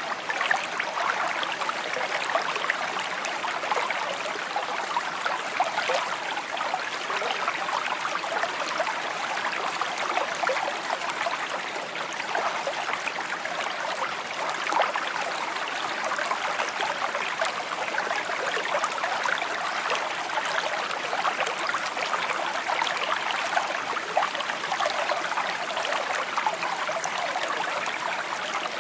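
A small stream burbling steadily over stones, a clear, babbling trickle of running water.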